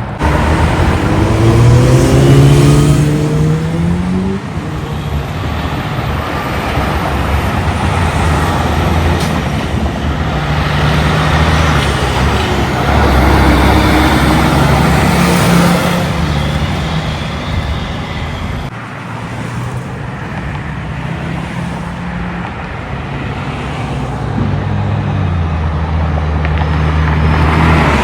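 Semi-trucks passing on a road amid traffic. Their diesel engines climb in pitch as they accelerate, once about two seconds in and again near the end, over steady tyre and traffic noise.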